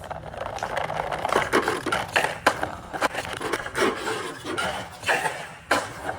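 Toy tractor and trolley rolling and scraping over a hard surface, with a string of sharp knocks and clatters.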